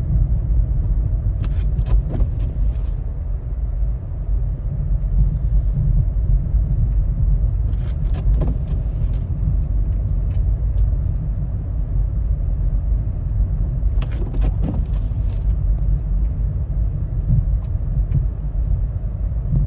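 Car driving on a snowy road: a steady low rumble of engine and tyres, with a few brief clicks or rattles about 2, 8 and 14 seconds in.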